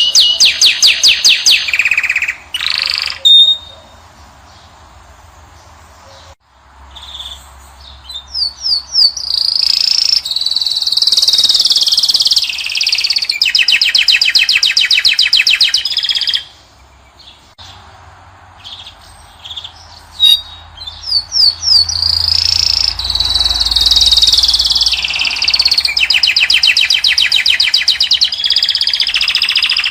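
Caged finch singing in long bouts of fast, high trills and twittering, broken twice by a pause of a few seconds.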